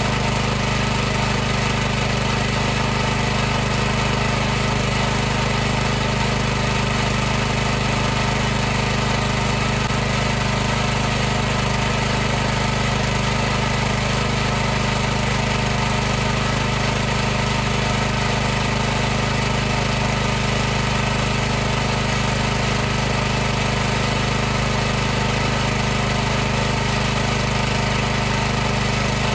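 High-pressure washer's pump running steadily, an even, unbroken mechanical drone.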